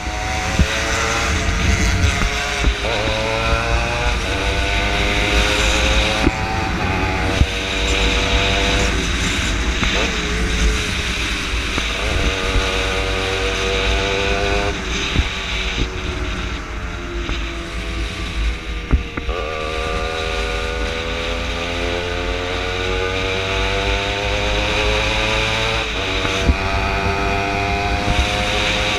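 115cc racing motorcycle engine at full throttle, heard from on board. Its pitch climbs under acceleration, then drops abruptly at each gear change or slides down when braking, several times over.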